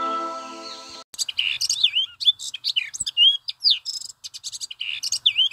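Background music fading out in the first second, then birds chirping and whistling in a busy chorus of short calls that swoop up and down in pitch.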